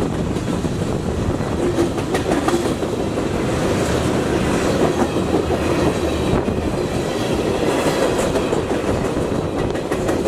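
Freight train of tank cars and a covered hopper rolling past close by, a steady dense noise of steel wheels on rail with scattered clicks over the rail joints.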